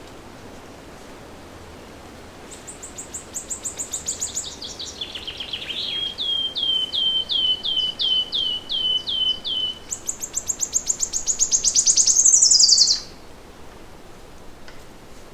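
A songbird singing one long song: quick high trills, then a run of repeated falling chirps about three a second, building to a louder, faster high trill that cuts off suddenly near the end. A faint steady outdoor hiss lies underneath.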